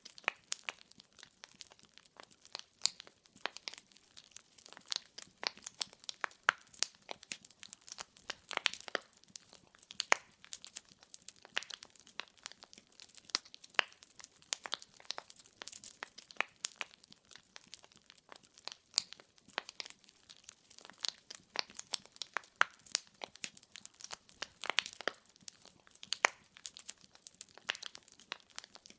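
Firewood burning in a fireplace, crackling and popping in quick, irregular snaps over a faint hiss.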